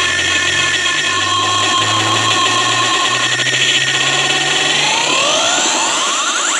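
A large sound system playing harsh, heavily distorted electronic music loudly. Sustained bass notes shift pitch under a dense layer of noise, and a rising sweep climbs toward the end.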